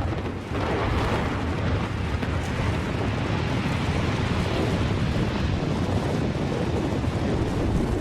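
Long, steady rumble of a reinforced concrete structure collapsing after its explosive demolition: falling concrete and debris, picking up about half a second in.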